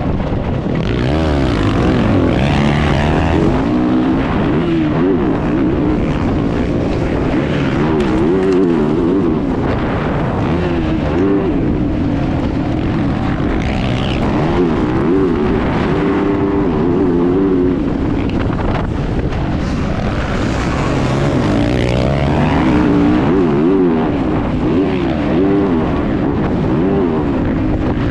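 Motocross bike engine heard close up from an on-board GoPro, its revs rising and falling over and over as the rider accelerates, shifts and backs off through the track.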